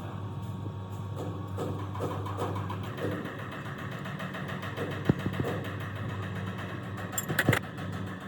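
A steady machine hum, with a few sharp knocks: one about five seconds in and several near the end.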